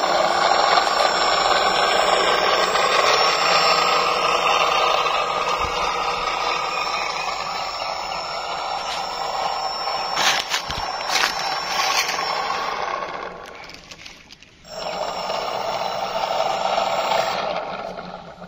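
A small motor running with a steady buzzing whine. It cuts off briefly and starts again, with a few clicks along the way.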